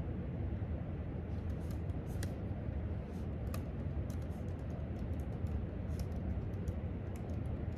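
Faint, irregular clicks of typing on a laptop keyboard, starting about a second in, over a steady low rumble of room ventilation.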